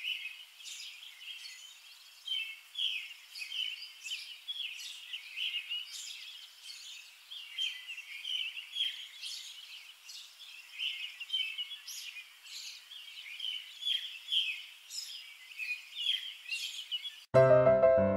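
Small birds chirping, many short high calls in quick succession. Piano music starts abruptly near the end.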